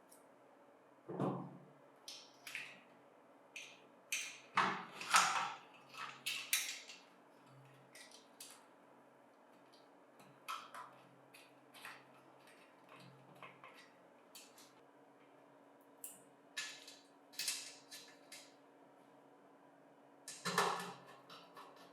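Scattered light knocks, clicks and taps of metal parts and tools being handled while a bench grinder is reassembled. They come in a busy cluster about four to seven seconds in and again around seventeen and twenty seconds in, with a lower thump about a second in.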